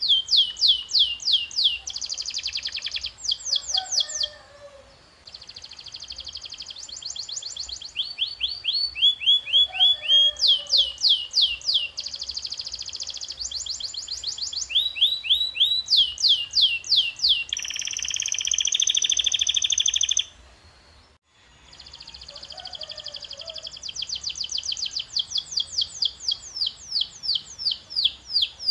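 Domestic canary singing: fast phrases of one repeated note, each note a quick downward sweep, changing to a new phrase every second or two. A buzzier trill comes about two-thirds through, followed by a brief pause before the song resumes.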